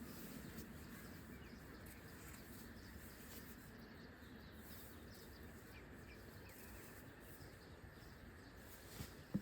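Near-silent ambience with a few faint, scattered bird chirps.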